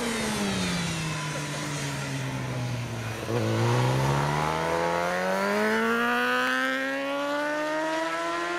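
Superbike racing motorcycle engine at high revs. Its pitch falls for about three seconds as it comes off the throttle, then it opens up again and the revs climb steadily through the rest of the run.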